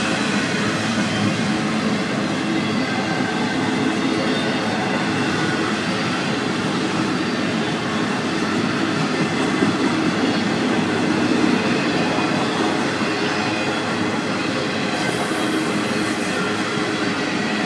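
Florida East Coast Railway freight train's container well cars rolling past, steel wheels running on the rail in a steady, continuous rumble.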